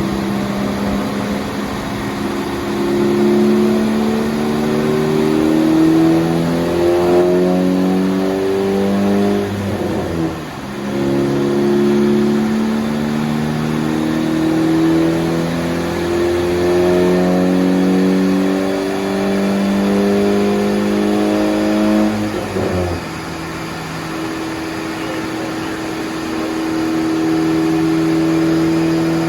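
Ford Focus ST's turbocharged five-cylinder engine, fitted with a big Garrett 2867 turbo and running on E85, revving under full load on a chassis dyno. The engine note climbs steadily in pitch, falls back about ten seconds in, and climbs again. About two-thirds of the way through it drops sharply and settles into a steady, lower note as the pull ends.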